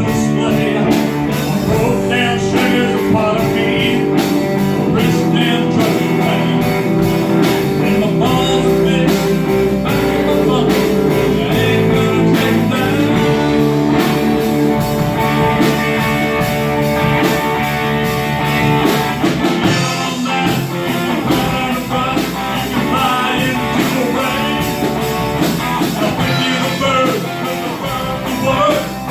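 A rock band playing live, guitar-led, with a blues-rock feel and a steady, loud sound.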